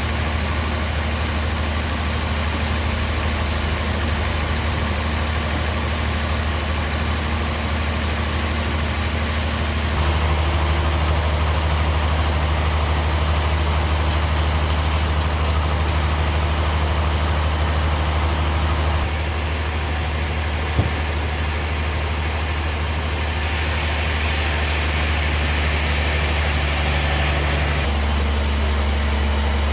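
Bandsaw sawmill running: a steady low machine hum whose tone shifts abruptly a few times, with a single sharp knock about two-thirds of the way through.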